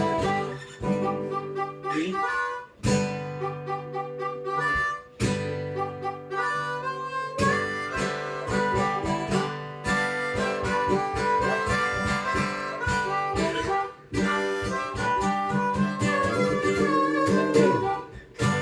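Instrumental break of a rock song: harmonica playing over strummed acoustic guitar.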